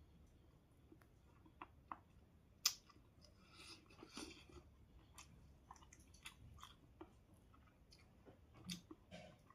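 A person chewing food with the mouth close to the microphone: faint, irregular smacking and small crunches, with one sharper click about two and a half seconds in.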